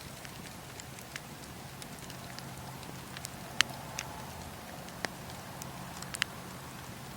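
Wood fire in a fireplace crackling: a steady low hiss under scattered sharp pops, the loudest about three and a half seconds in, with a quick pair near the end.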